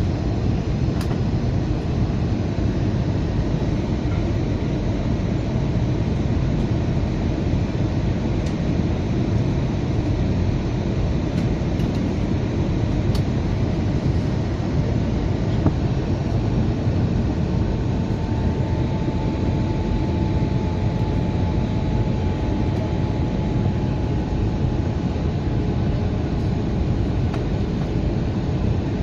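Airbus A320 cabin noise during the approach: a steady rush of airflow and engine noise with most of its weight low down. A faint thin whine joins about halfway through and fades out before the end.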